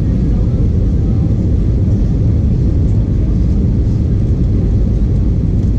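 Steady low rumble of an Airbus A320-232 airliner during its landing, a continuous, even noise of engines and airflow with no separate events.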